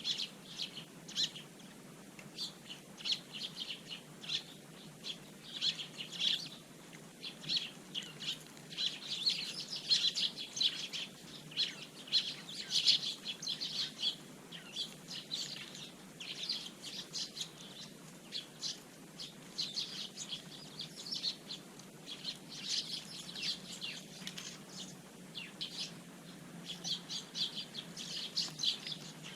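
Eurasian tree sparrows chirping, many short calls overlapping and busiest about ten to fourteen seconds in.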